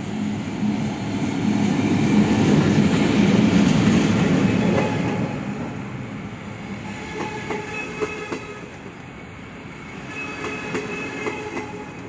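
Zurich S-Bahn double-deck train led by an SBB Re 450 electric locomotive passing close by. The locomotive's deep rumble is loudest a few seconds in. The coaches then roll past with scattered wheel clicks and thin, high wheel squeal.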